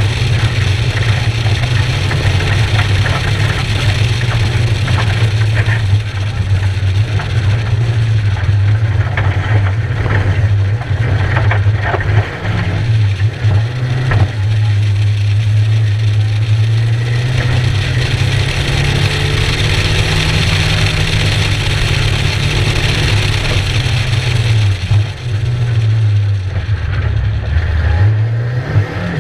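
Skoda Fabia RS 1.9 TDI rally car's turbodiesel engine pulling hard at speed over road and wind noise. The engine note dips briefly a few times as the driver lifts and changes gear, most deeply near the end on the approach to a bend.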